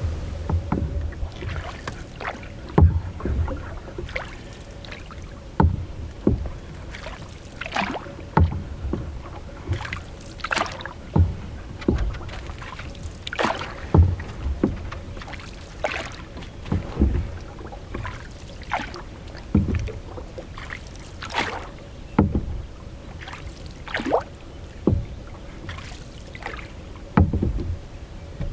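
Canoe paddling: a wooden or composite paddle dipping and pulling through calm lake water in steady strokes, about one every second and a half, each with a short splash and drip.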